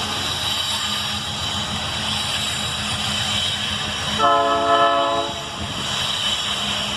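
Train running on the rails with a steady rumble, and a horn blast of about one second a little past halfway through.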